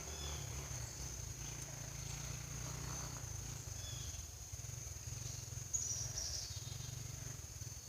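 Woodland ambience: a steady high-pitched insect drone over a low rumble, with a short bird chirp about six seconds in.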